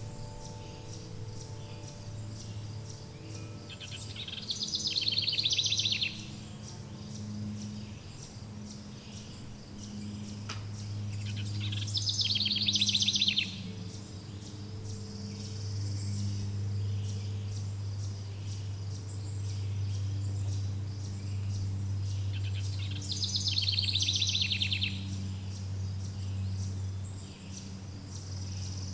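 Songbird singing three short, loud trilled phrases several seconds apart over steady, fast insect chirping. Low sustained tones hum underneath, and a fading chime-like tone dies away near the start.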